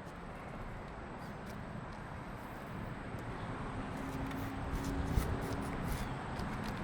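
Steady outdoor background noise that slowly swells, with a faint low hum for a few seconds midway and a couple of light taps.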